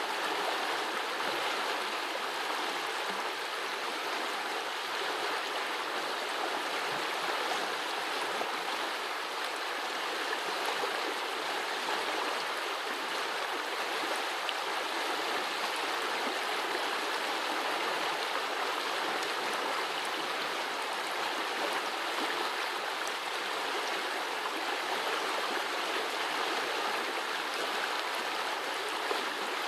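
Small forest brook running, a steady even rush and gurgle of flowing water.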